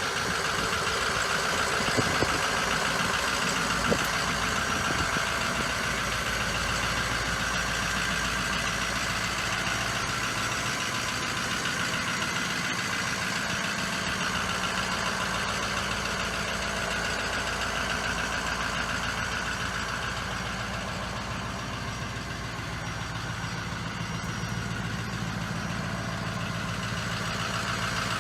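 6.0L Powerstroke turbodiesel V8 of a Ford F-550 dump truck idling steadily, with two brief knocks about two and four seconds in.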